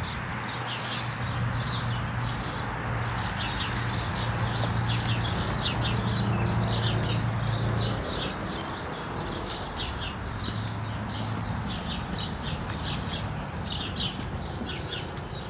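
Birds chirping, many short high calls one after another, over a steady low hum that fades about halfway through.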